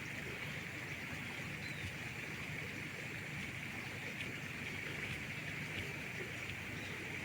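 Steady ambience on an Amazon river: a continuous low hum under an unbroken high-pitched drone, with no distinct events.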